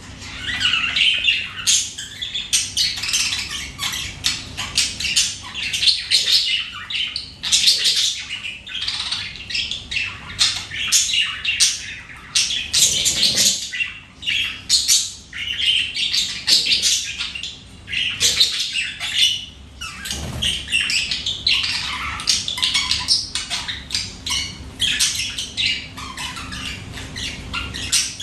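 A flock of birds calling at once: a constant stream of overlapping chirps and squawks.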